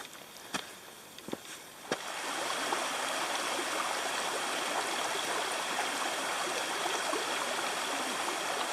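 A few footsteps on the trail, then from about two seconds in a woodland stream rushing over rocks, a steady running-water sound.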